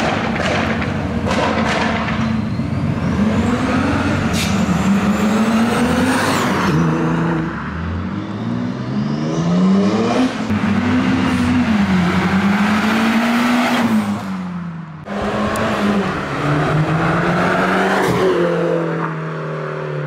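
Car engine revving and accelerating hard, its note climbing and falling through several revs. There are a few sharp cracks in the first couple of seconds, and the sound dips briefly about fifteen seconds in.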